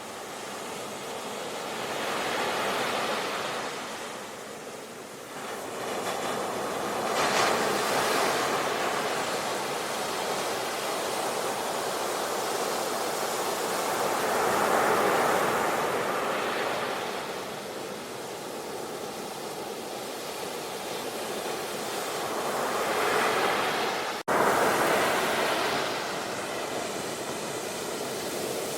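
Ocean waves breaking on a beach, the surf swelling and ebbing in several surges every few seconds. The sound drops out for an instant about 24 seconds in and comes straight back.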